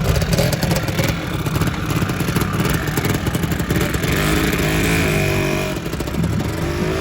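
Two-stroke Lambretta scooter engines running as scooters ride off, with a low engine rumble throughout. Two rising revs come through, about four seconds in and again near the end.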